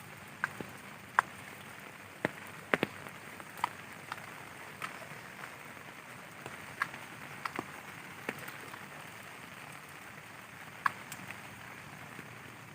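Rain falling on a dome tent: a steady hiss with sharp, irregular taps of single drops striking the fabric.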